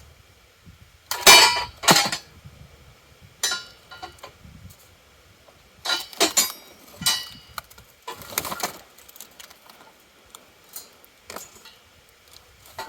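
Metal parts of a truck-hitch game hoist clinking and clanking as they are handled during unboxing: a string of irregular knocks with short ringing, loudest about a second in.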